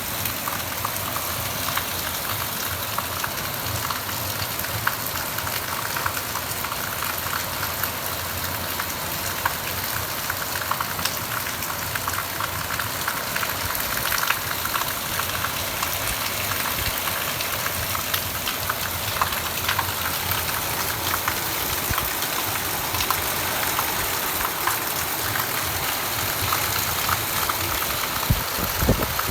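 Heavy rain pouring steadily, with many small drops pattering and ticking on hard surfaces.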